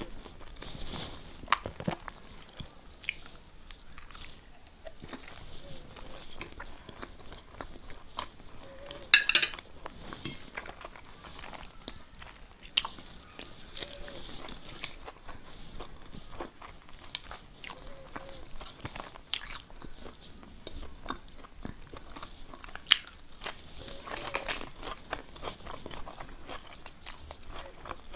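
Close-up eating sounds: a person biting and chewing food, with scattered small crunches and clicks and one louder, sharper clatter about nine seconds in.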